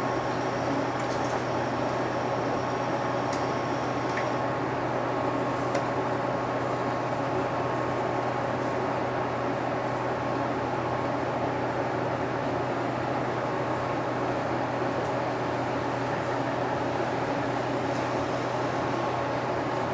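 Steady interior running noise of a 2006 UD (Nissan Diesel) Space Runner RA non-step city bus: an even drone from the diesel engine and cabin, with a thin steady whine on top, not changing in pitch or level.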